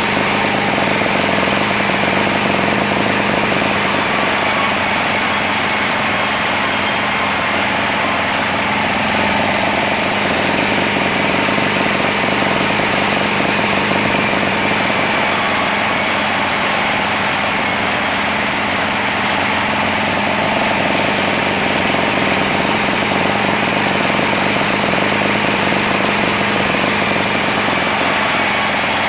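Sawmill machinery running steadily and loudly: an unbroken mechanical drone with a constant whine, with no pauses or changes.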